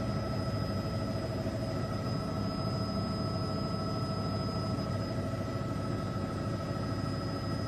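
Helicopter cabin noise: a steady engine and rotor drone with a fast low pulsing and several constant whining tones.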